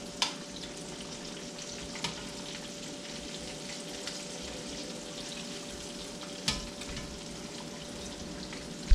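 Breaded fish fillets frying in hot oil in a cast iron skillet: a steady sizzle and crackle, broken by four sharp clicks, the loudest at the very end.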